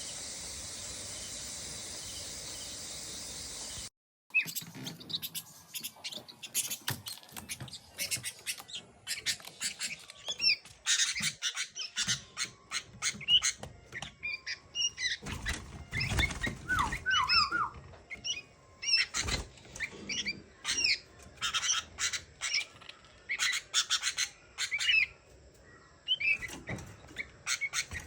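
A steady hiss for about four seconds cuts off abruptly. Then a flock of sooty-headed bulbuls call with many short chirps and whistled notes, often in quick runs, now thick, now sparse.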